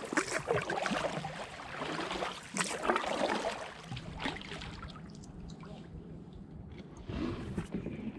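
Kayak paddle strokes splashing in the water, several roughly a second apart, then quieter with one more stroke near the end.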